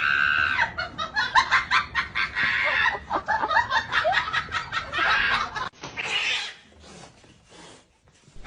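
A rapid run of clucking calls, like a chicken's, with short rising and falling squawks. It breaks off about six seconds in, leaving a few softer noisy bursts.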